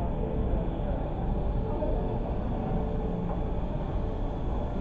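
Airliner cabin noise: a steady drone of jet engines and airflow, heavy in low rumble and without letup.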